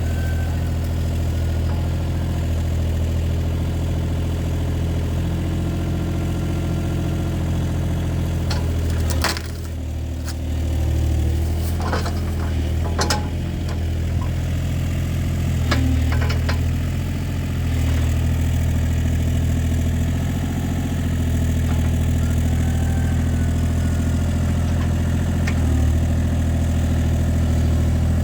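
An engine idling steadily, with a few sharp clicks or knocks partway through.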